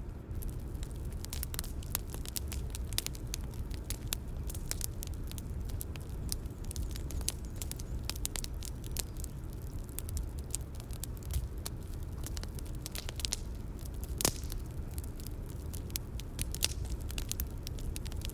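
Bonfire crackling: a steady low rumble of burning with frequent sharp pops and crackles, one louder pop about fourteen seconds in.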